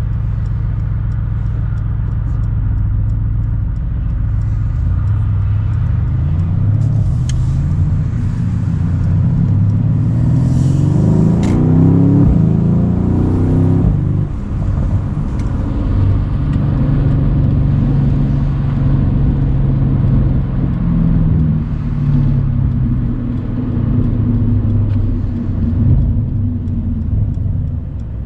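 Mercedes-AMG C63's 4.0-litre twin-turbo V8 accelerating, its pitch climbing steadily for about ten seconds. About halfway through it drops off sharply, then runs at a steadier, lower pitch while cruising.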